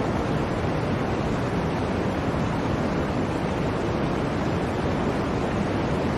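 Blizzard wind, a steady rushing howl with a heavy low rumble.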